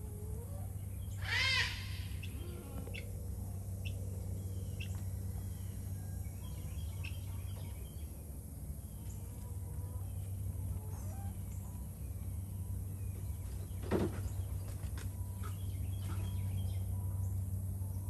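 Small birds chirping here and there, with one louder call of quick repeated notes about a second and a half in. A single brief sharp sound comes about two thirds of the way through, over a steady low hum.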